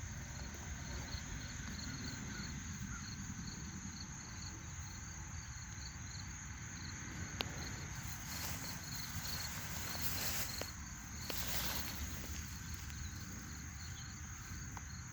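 Insects chirping in a steady pulsing trill over a low outdoor rumble, with a few brief rustles about eight to twelve seconds in.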